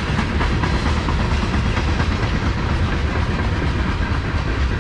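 BNSF mixed freight train's cars (tank cars, boxcars and covered hoppers) rolling steadily past: a continuous rumble of steel wheels on the rails with repeated clicks and clacks as the wheels cross the rail joints.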